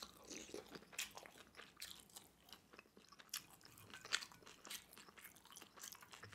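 Faint, close-miked chewing of pan-fried rice rolls (cheung fun): soft, wet mouth smacks and irregular small clicks.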